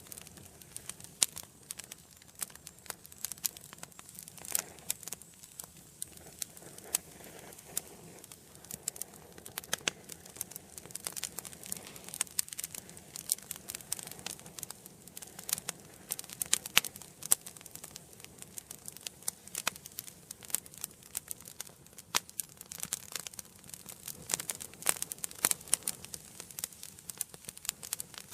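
Wood fire burning in an indoor fireplace, crackling and popping in dense, irregular snaps over a soft hiss.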